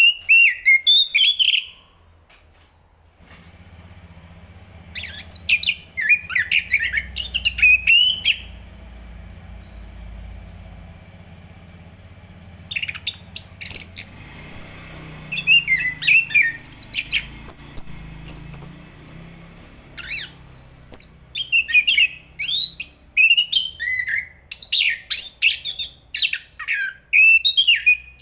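Chestnut-capped thrush singing in bursts of quick, varied, whistled and chattering notes, pausing between phrases, with a faint low hum underneath.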